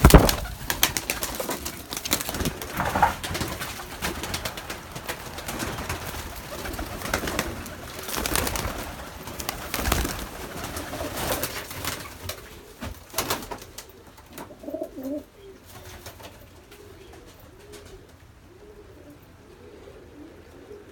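Pigeons cooing in a series of low, soft calls, clearest in the last third. Before that, many short knocks and scuffs come through the first dozen seconds.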